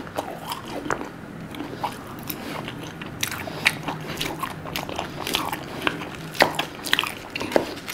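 Close-up chewing of crisp fried food, with irregular crunches and wet mouth clicks.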